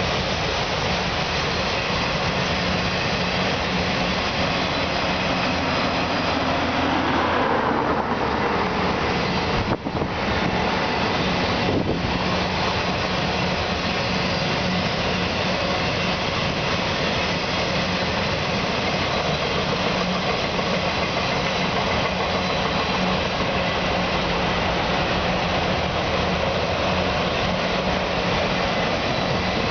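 Autorack freight cars of a Union Pacific train rolling past at track speed: a steady noise of steel wheels running on the rail, with a brief break about ten seconds in.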